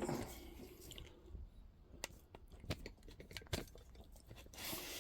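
Faint, scattered clicks and light knocks of tools and engine parts being handled during engine assembly, with a brief rustle near the end.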